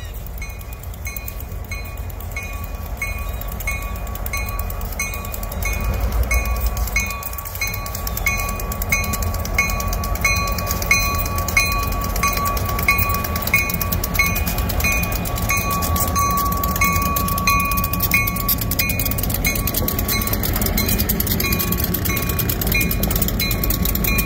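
Great Lakes Central diesel locomotives approaching and rolling past, their engine rumble growing louder from about six seconds in. A railroad bell rings evenly, about twice a second, throughout.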